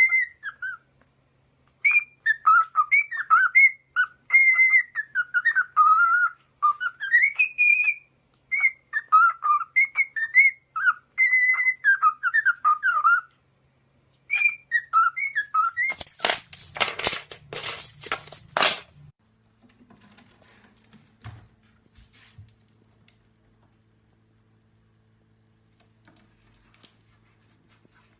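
Pet parrot whistling a warbling tune in short phrases, the pitch sliding up and down, with brief pauses between phrases. About sixteen seconds in, a loud burst of noise lasts about three seconds, then only faint clicks remain.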